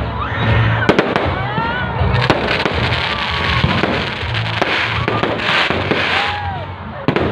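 Fireworks display: repeated sharp bangs and crackling bursts, with music playing underneath.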